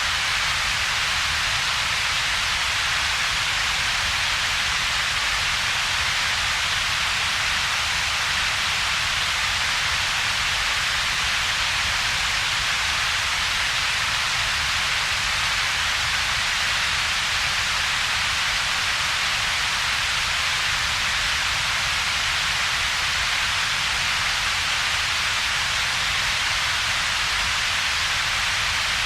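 Steady synthetic double-peaked noise: a strong high hiss and a weaker low rumble, with little sound between them. It does not change.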